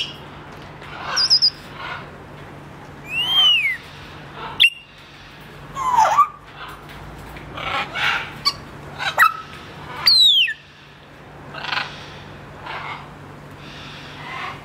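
Caged parrot calling in a series of short squawks, clicks and chatter, with two loud whistles that slide down in pitch.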